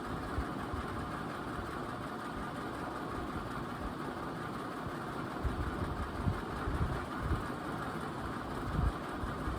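56-inch NuTone Pro line ceiling fan with generic spinner blades running steadily on the second-slowest setting of a 5-speed control, giving a steady whir of motor and moving air. A few low thumps come about halfway through and again near the end.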